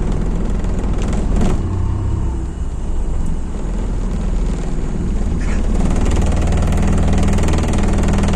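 MAZ-206 city bus's engine running under way, heard from inside the passenger cabin; the engine note dips briefly about two and a half seconds in, then rises and holds steady from about six seconds in.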